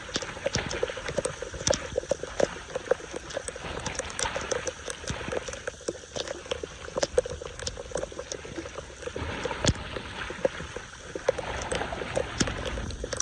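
Running water with many irregular splashes and sharp clicks, as floodwater is stirred and debris is pulled from a clogged street drain.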